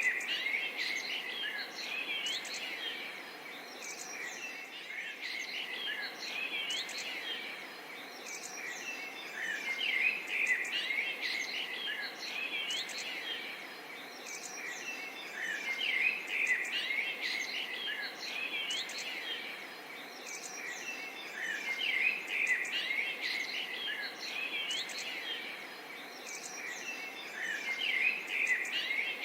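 Many small birds chirping and calling at once over a faint steady background of insects, the chorus swelling and easing about every six seconds.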